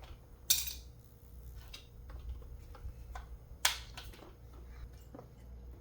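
A few short, sharp clicks and knocks, the loudest about half a second in and another about three and a half seconds in, with fainter ticks between, over a steady low hum.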